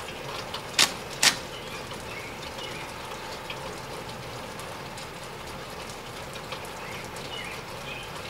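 Steady hiss of rain during a thunderstorm, with two sharp clicks about a second in and faint high chirps scattered through.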